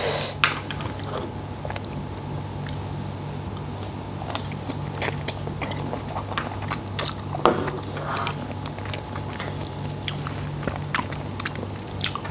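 Close-miked mouth sounds of eating seafood in fish sauce: wet chewing and biting with scattered clicks and smacks, over a steady low hum.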